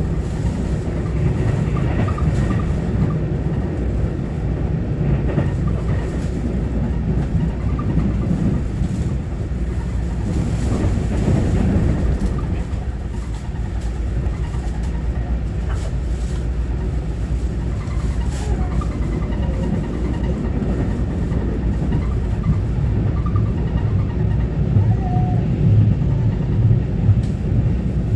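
Taiwan Railway EMU900-series electric multiple unit running at speed, heard from on board: a steady low rumble of wheels on rail and running gear, with a few faint clicks.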